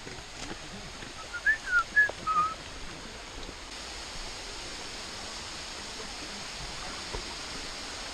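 Steady rushing of a waterfall, growing brighter and hissier about halfway in. About a second and a half in, a few short whistled notes slide up and down over it.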